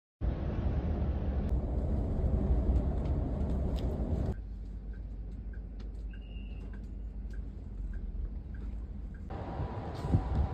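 Steady low rumble of a moving vehicle heard in several spliced clips. The first is loud; a quieter one about 4 seconds in carries faint regular ticks.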